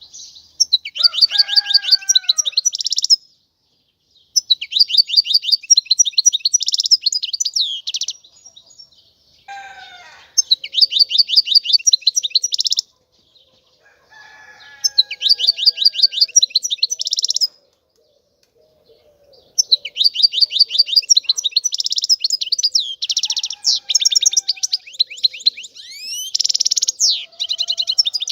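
European goldfinch singing: rapid, twittering trills in phrases of a few seconds each with brief pauses between them, running into one longer unbroken stretch of song in the second half.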